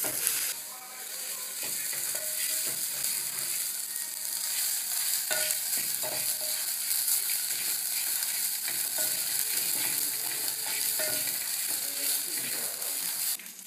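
Nsenene grasshoppers sizzling as they fry in a pan, with the clicks and scrapes of a spoon stirring them. The sizzle cuts off abruptly near the end.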